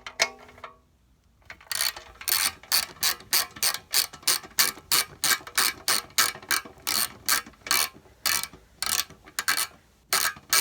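Socket ratchet wrench clicking steadily, about three clicks a second, as the handle is worked back and forth, with a short pause near the end.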